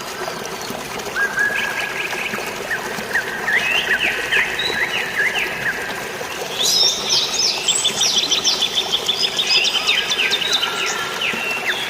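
Several songbirds chirping and trilling over a steady wash of rain and falling water, the chirping growing busier about halfway through.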